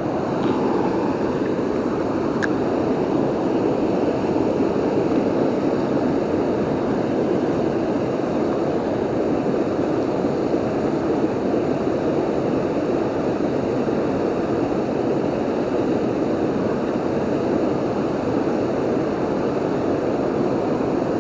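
Steady rush of water pouring over a river waterfall, an even, unbroken noise.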